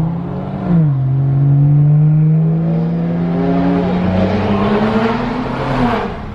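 Car engine under acceleration: the pitch drops at a gear change about a second in, then the revs climb steadily for several seconds and fall again near the end.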